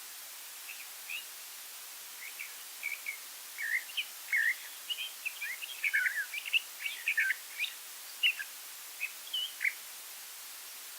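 Songbirds chirping in quick, short notes, sparse at first, then busy through the middle and thinning out toward the end, over a steady background hiss.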